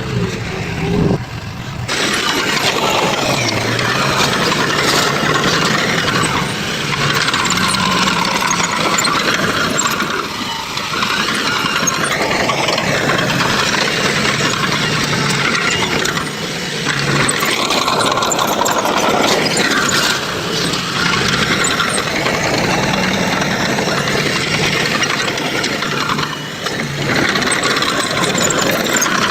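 Heavy diesel construction machinery running under working load, its engine note rising and falling as it revs up and down, with an abrupt change in the sound about two seconds in.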